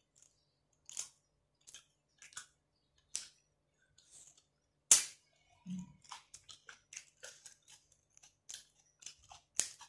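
Close-up eating sounds: chewing and lip smacks heard as scattered short clicks, with one sharp, loud smack about five seconds in and a brief hummed "mm" just after.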